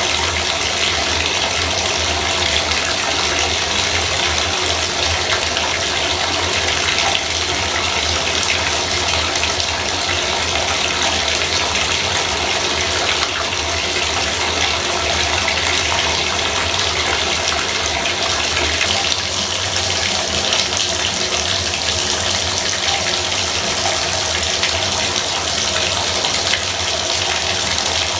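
Bathtub faucet running, a steady loud stream of water splashing into the tub.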